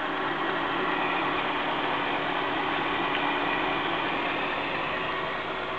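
Mercedes-Benz W220 S-Class engine idling steadily, heard with the bonnet open.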